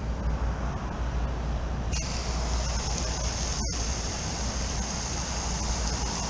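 Garden hose spraying water onto a dirty condenser coil, a steady hiss over a low rumble. The high hiss of the spray falls away at the start and comes back about two seconds in.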